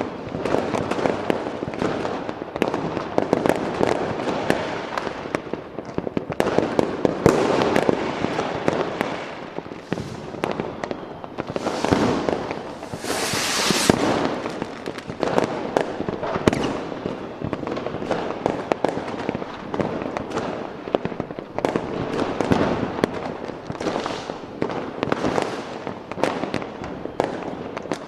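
Fireworks going off continuously: a dense run of bangs and crackling cracks, with a brighter hissing burst about halfway through.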